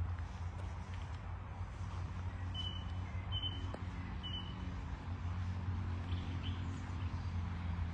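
Steady low outdoor rumble, with three short high chirps about a second apart in the middle.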